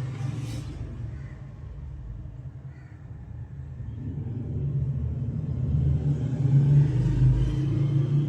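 A low engine rumble that grows steadily louder through the second half and peaks near the end.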